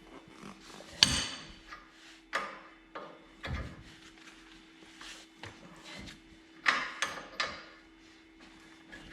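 Irregular metal clanks and knocks from hand tools on truck front-suspension parts, about seven in all, the loudest about a second in and a quick cluster near the end, over a steady faint hum.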